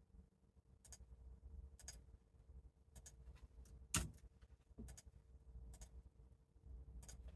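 Faint, sharp clicks about once a second, with one louder knock about four seconds in, over a faint low hum.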